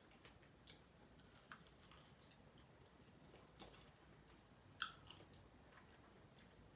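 Faint chewing and biting on chicken wings, with a few soft scattered mouth clicks and one sharper click a little before the end.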